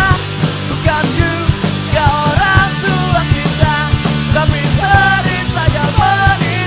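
Punk rock band playing an instrumental passage with no singing: steady drums and bass under a lead melody line that bends up and down in pitch.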